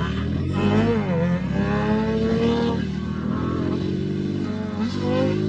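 Motocross bike engine revving hard, its pitch climbing and dropping several times as the throttle is worked.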